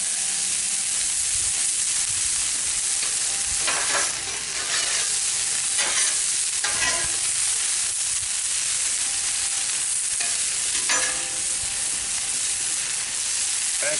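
Chicken and vegetables sizzling steadily on a Blackstone flat-top griddle, with a few short louder scrapes and stirs about four, six to seven and eleven seconds in.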